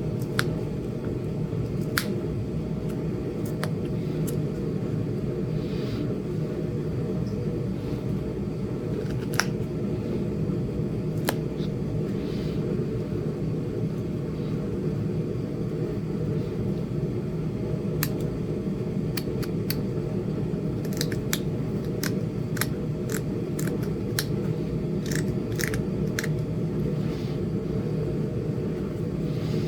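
Sharp clicks and snaps of Flint Ridge chert being knapped, flakes popping off a small point under the knapping tool, scattered at first and coming in quick clusters in the second half. They sound over a steady low rumble.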